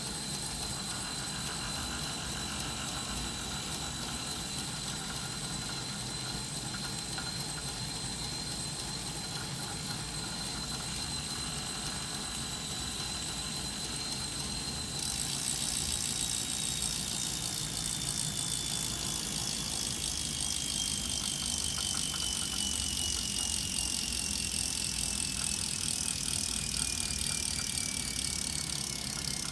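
Wahoo Kickr Snap smart bike trainer running with a steady high whine over a harsh, distorted noise. About halfway through the harsh noise suddenly gets louder and the whine then falls steadily in pitch as the flywheel slows. The distorted noise is new and abnormal for this trainer, a sign of a fault.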